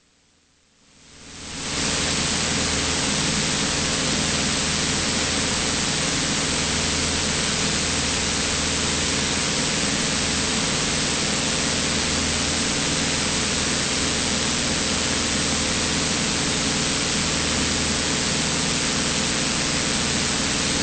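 Cessna 182 engine and propeller noise in the cabin: an even hiss with a faint low hum underneath. It is cut out for about a second at the start, then fades up over the next second and holds steady.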